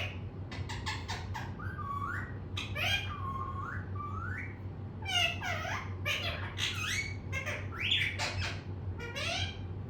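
Pet talking parrot calling and chattering: a rapid string of short squawks and whistled notes, many gliding up or down in pitch, over a steady low hum.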